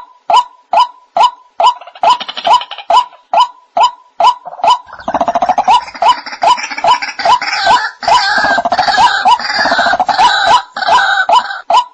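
White-breasted waterhen calling: a steady series of short, loud notes at about two and a half a second. About two seconds in, and again from about five seconds in until near the end, a dense layer of harsher, overlapping calls joins them.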